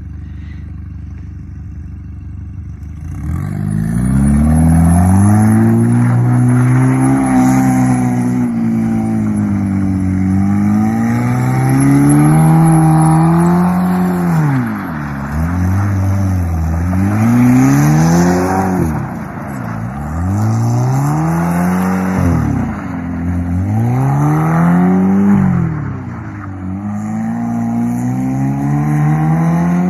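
BMW 320xi's engine revving hard while the car drifts on snow, the revs climbing and dropping back again and again. It is quieter for the first three seconds, then rises and falls in pitch every two to three seconds as the driver works the throttle through the slides.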